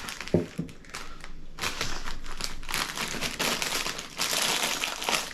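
Plastic snack packaging crinkling and rustling as it is handled, in a dense, irregular crackle that thickens after about a second and a half, with one soft knock about a third of a second in.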